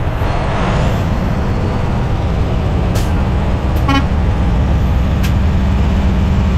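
Semi-truck diesel engine idling steadily, with a couple of sharp clicks and a short toot about four seconds in.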